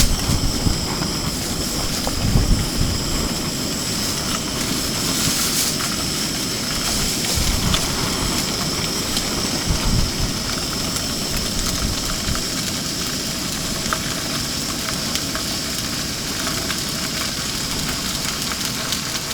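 Salmon frying in oil in a pan on a portable propane stove: a steady sizzling hiss. Gusts of wind buffet the tent and microphone, strongest in the first few seconds and again about ten seconds in.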